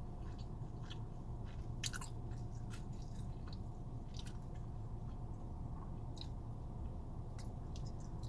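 A person chewing a mouthful of burrito, with scattered wet mouth clicks and smacks, the sharpest about two seconds in, over a steady low hum.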